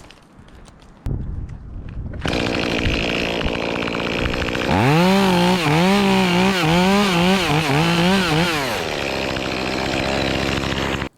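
Echo CS-2511T small two-stroke top-handle chainsaw running. About halfway through it is throttled up into a cut, its pitch dipping and recovering several times under load, then it drops back to a steady lower pitch before the sound stops abruptly near the end.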